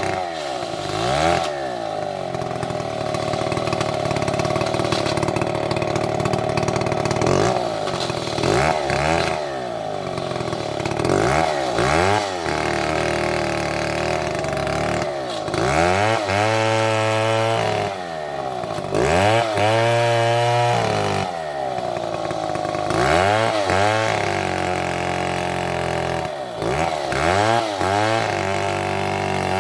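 STIHL chainsaw running hard and cutting wood. The engine revs up and down again and again, with steadier stretches where it holds its pitch in the cut.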